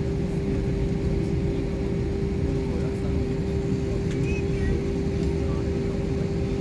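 Steady drone of an airliner's cabin in flight: engine and airflow noise with a constant hum running through it.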